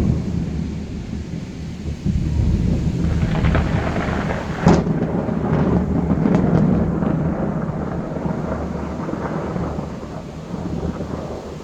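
Thunder during rain: a long low rumble, a sharp crack about five seconds in, then rolling rumbling that slowly fades.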